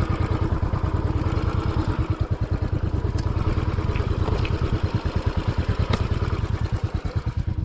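Royal Enfield Classic 500's single-cylinder engine running steadily with a fast even pulse while the motorcycle is ridden, with a few faint clicks on top.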